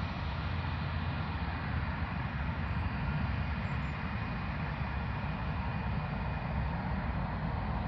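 Jet airliner engines giving a steady rumble, with a faint thin whine above it.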